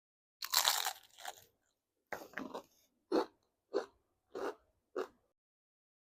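A person taking a crunchy bite and then chewing, close to the microphone: one long crunch about half a second in, then five shorter chewing crunches at a steady pace.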